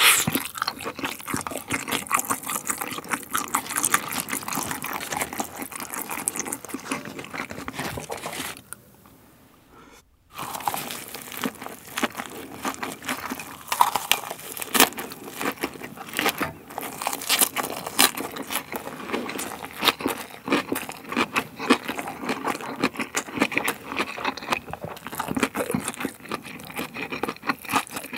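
Close-miked eating: wet chewing and smacking of spicy stir-fried pork tripe (gopchang), with crunching as a leafy green wrap is bitten and chewed. Dense, irregular mouth clicks throughout, broken by a brief near-silent gap about a third of the way in.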